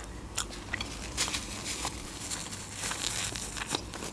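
Close-miked chewing of a mouthful of chicken with the mouth closed: soft, irregular wet clicks and smacks.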